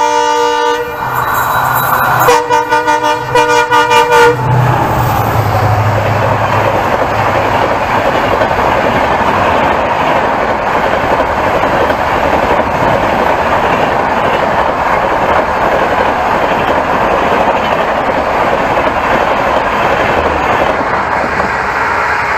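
WDP-4D diesel locomotive's horn sounds one blast, then a run of short pulsing blasts a couple of seconds in. The locomotive then passes with a brief low engine hum, followed by a long steady rush of LHB coaches' wheels on the track as the express runs through at around 130 km/h.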